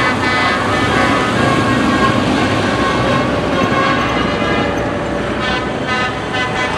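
Tractor engines running, with steady held tones sounding over their rumble.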